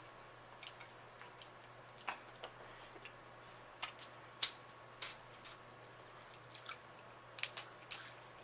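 Close-up eating sounds from a seafood boil: wet chewing and mouth smacks, with scattered short, sharp clicks.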